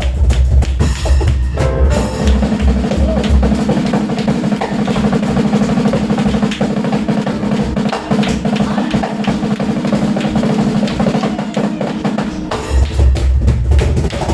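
Drum kit played fast in a live band: heavy bass-drum beats at the start and again near the end, and between them a rapid continuous roll over a held low tone.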